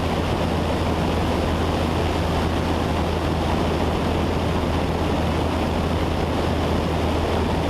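Steady drone of a Cessna 172 Skyhawk's piston engine and propeller in flight, heard inside the cockpit: a constant low hum under an even rushing noise.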